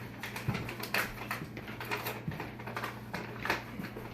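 Irregular light clicks and crackles, a few a second, over a steady low hum.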